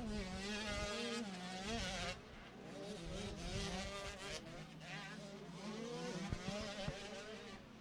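Motocross bike engines revving up and down as the leading riders come past on the track, the engine pitch rising and falling repeatedly.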